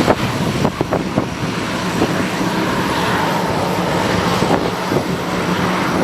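Aircraft engines running steadily with a low hum, with a few sharp knocks in the first second or so.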